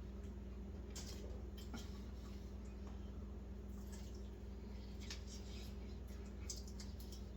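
Faint wet mouth sounds of a man chewing a chicken drumstick: scattered smacks and clicks over a steady low hum.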